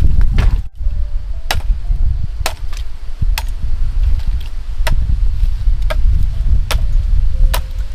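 Repeated sharp chopping strokes of a hand tool, about one a second, over a steady low rumble.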